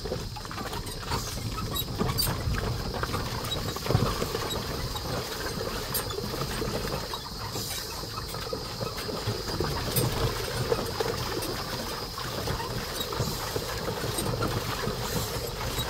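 Carabao-drawn cart rattling and creaking in many small irregular knocks as it jolts over rough ground, with a steady thin high tone behind it.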